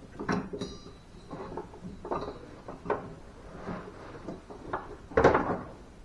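Irregular clanks and knocks of tools and metal mower parts being handled during deck and belt work, with a louder clatter about five seconds in.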